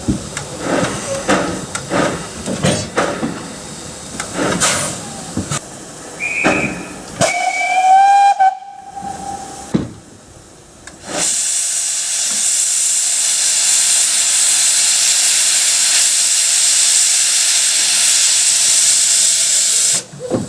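Narrow-gauge steam locomotive: a run of sharp beats, then a whistle blast about seven seconds in. From about eleven seconds a loud, steady hiss of escaping steam lasts some nine seconds and cuts off suddenly.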